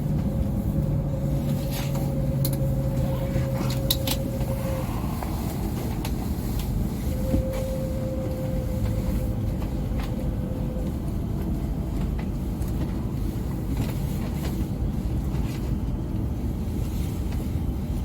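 E5 series Shinkansen running at speed, heard from inside the passenger cabin: a steady rumble with a faint humming tone over the first few seconds and again briefly a few seconds later.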